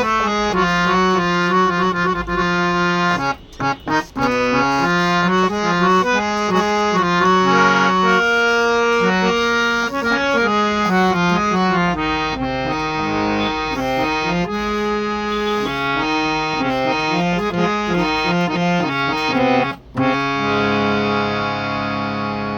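Folding harmonium being played: a melody of held, reedy notes, broken off briefly twice, ending on a long held chord.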